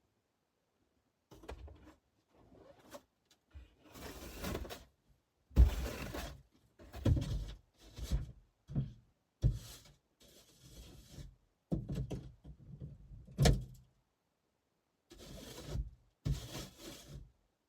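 A run of irregular thumps, knocks and rustling noises starting about a second in, with sharp thumps about six seconds in and again near two-thirds of the way through.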